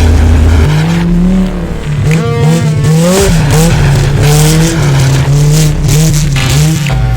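Race car engine revving up and down hard, with tires squealing.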